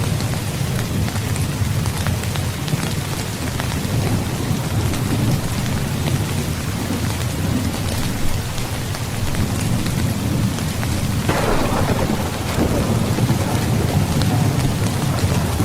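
Steady rain under a continuous low rumble of thunder. About eleven seconds in, a burst of thunder comes in suddenly and fades over a couple of seconds.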